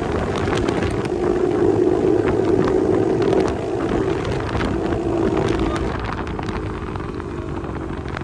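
Pit bike's small single-cylinder engine running hard on a flat-out top-speed run, with wind noise on the microphone. The engine sound eases and fades somewhat over the last two seconds.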